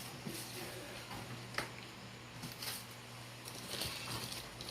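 Light handling noises: a few scattered clicks and soft rustles as the unboxed microwave and its packaging are handled, over a steady low hum.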